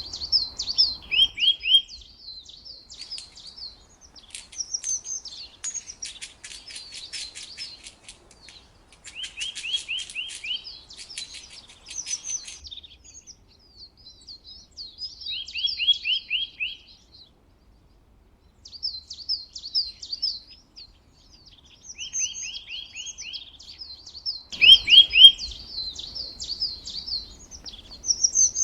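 Small songbirds chirping and singing, several calls overlapping, with short trills repeated again and again and at times a fast dry rattle; the calls pause briefly about two-thirds of the way through.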